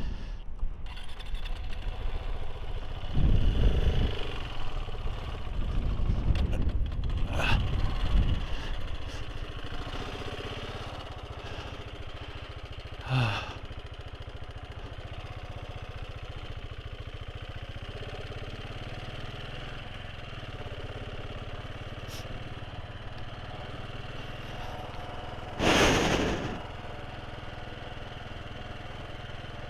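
Motorcycle engine running, with heavy low rumble for the first several seconds, then settling to a steady idle hum. A short loud burst of noise comes near the end.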